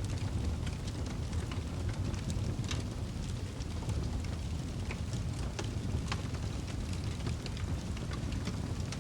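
Wood fire burning in a fireplace: a steady low rumble with scattered crackles and pops from the burning logs.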